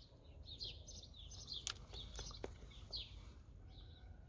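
Small birds chirping: short, high, repeated chirps over a low steady background hum. Two faint clicks come about a second and a half and two and a half seconds in.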